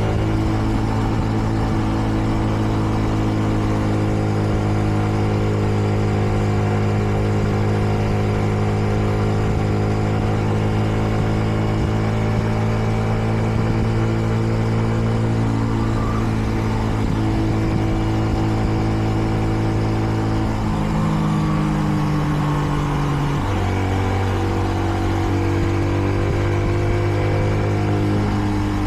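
Kreidler Dice CR 125 single-cylinder four-stroke motorcycle engine running at a steady cruising note, ridden gently while still being run in. About two-thirds of the way through, the note shifts and then settles lower.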